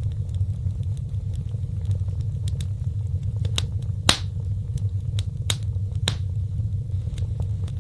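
Wood fire burning in a fireplace: a steady low rumble of flames with sharp crackles and pops, a few louder pops in the middle.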